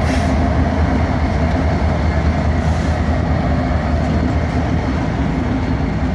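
BNSF freight train's diesel locomotive passing at low speed, its engine giving a steady, loud low rumble.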